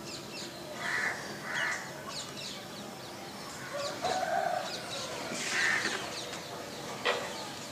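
Birds calling: many short, high chirps, with louder calls about one and two seconds in, a lower call around four seconds and another near six. A sharp click comes about seven seconds in.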